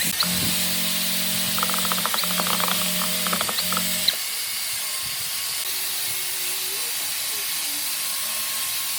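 Steady hiss throughout, with a small motor humming and rattling with rapid clicks for the first four seconds, then stopping abruptly with a sharp click.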